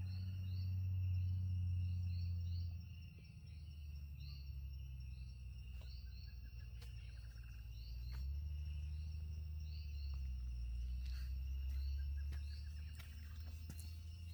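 Forest ambience with a steady high insect drone and short chirps repeating a few times a second, with brief trills now and then. A low rumble runs underneath and is the loudest part, swelling and easing off twice. Scattered clicks come near the end.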